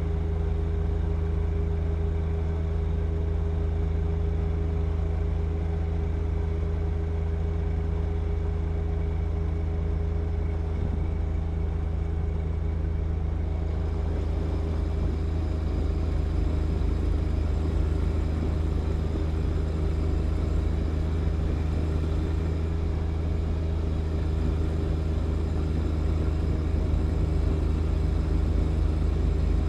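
John Deere 1025R compact tractor's three-cylinder diesel engine running steadily while working a snow blower, with a little more high-end noise from about halfway through.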